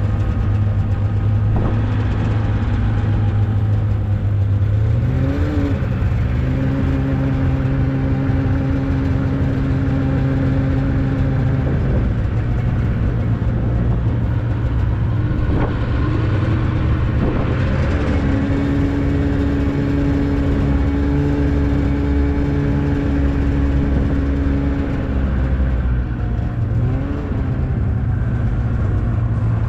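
Motor vehicle engine running steadily, its pitch stepping up about five seconds in and settling back down near the end.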